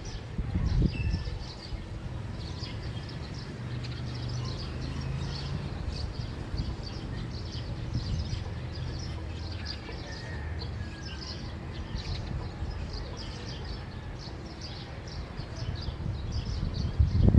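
Small birds chirping in many short, rapid calls of a morning chorus, over a low rumble with a faint steady hum. There are low thumps about half a second in and again near the end.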